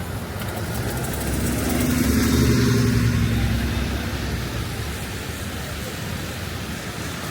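City street traffic: a motor vehicle passes, its engine hum swelling to a peak about two and a half seconds in and then fading, over a steady wash of traffic noise.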